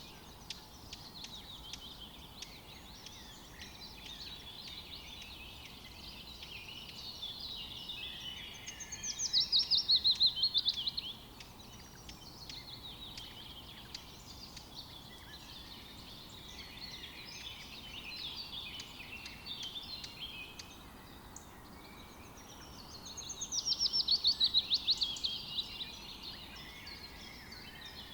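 Songbirds chirping and singing. Twice, about nine seconds in and again near the end, one bird gives a loud, fast trill of rapidly repeated notes lasting two to three seconds and falling slightly in pitch.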